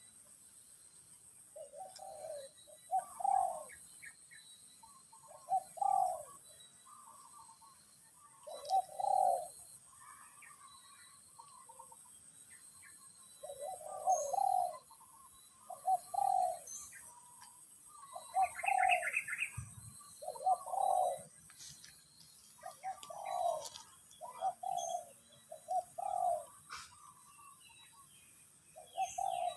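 A bird's short low call, repeated every second or two, with a brief higher chirping burst about two-thirds of the way through.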